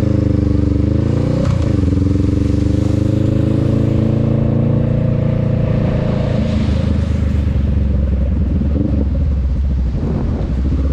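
Honda Rebel 500's parallel-twin engine running under way, with a gear change about a second and a half in, after which the pitch climbs slowly and then holds steady.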